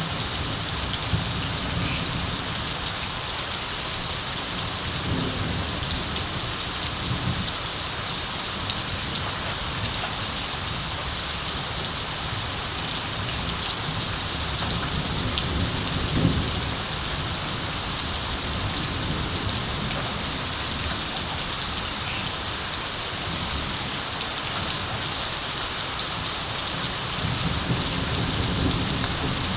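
Steady rain falling, with distant thunder rumbling low in long rolls that come and go several times.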